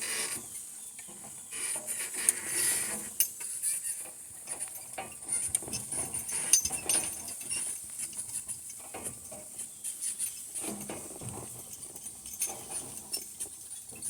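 Donkey-drawn cart on the move: the harness hardware jingles and clinks in irregular, quick clicks, with knocks and creaks from the cart.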